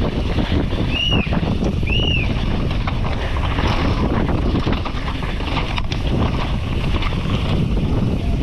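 Wind buffeting a helmet-mounted camera microphone on a downhill mountain bike descending a wet, rocky trail, over the steady rumble and rattle of the bike on the ground. Two short high squeals come about a second apart near the start.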